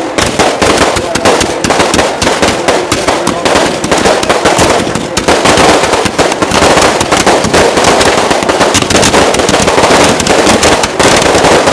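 A long string of firecrackers going off in rapid, dense succession, loud and unbroken; it starts suddenly and keeps on crackling throughout.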